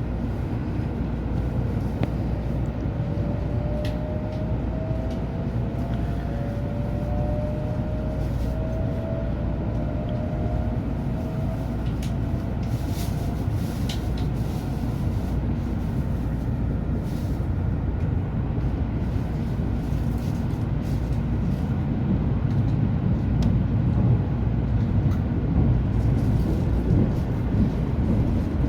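Cabin noise of an N700 Shinkansen pulling away from a station: a steady low rumble with a rising electric motor whine in the first half as the train accelerates, the rumble growing louder near the end.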